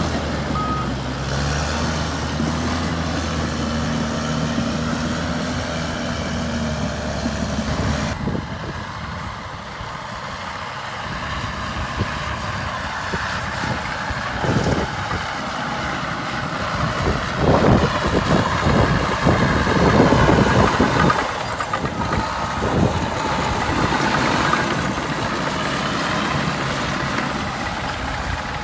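Heavy diesel earthmoving machinery at work: a steady engine note for the first several seconds, with a reversing alarm beeping briefly at the start. Then a rougher stretch of repeated knocks and clatter through the middle, with the alarm beeping briefly again about two-thirds of the way in.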